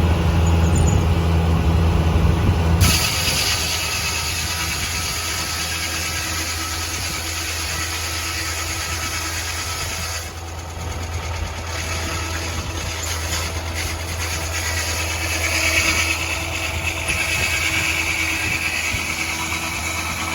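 Engine-driven Foley Belsaw circular sawmill running while sawing pine: a steady engine hum, joined about three seconds in by a broad, hissing high-pitched noise that carries on.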